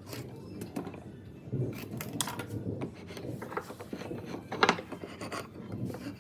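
Workshop handling sounds: irregular knocks, clicks and rubbing as wooden pieces and tools are moved and set down, with one sharper knock a little after the middle.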